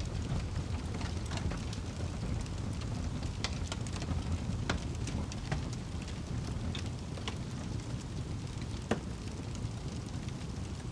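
Wood fire crackling in a fireplace: a steady low rumble of flames with scattered sharp pops and snaps, the loudest about nine seconds in.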